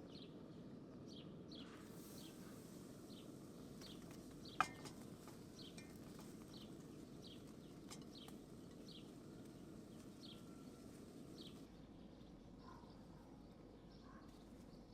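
A small bird repeating a short, high, falling call about once a second over faint outdoor background noise, with a single sharp click about a third of the way in.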